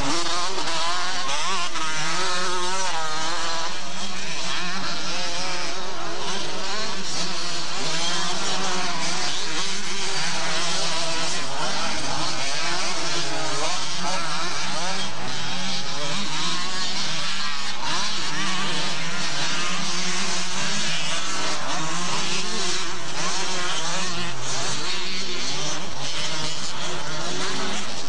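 Several two-stroke motocross bikes racing, their engines revving up and down over one another without a break.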